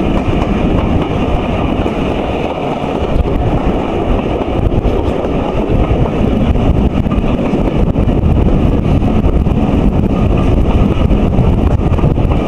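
Steady running noise of a steam-hauled train's carriages on the track, heard at an open carriage window, with wind buffeting the microphone.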